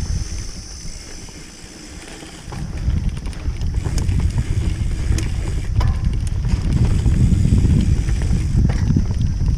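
Mountain bike riding over a dirt trail, heard from a camera on the rider: wind rumbling on the microphone, with the bike clicking and rattling over bumps. It eases off about a second in, then picks up and stays louder from about two and a half seconds on.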